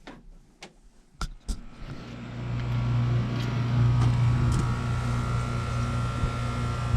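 A few sharp clicks, then a steady motor hum that starts about two seconds in and keeps running.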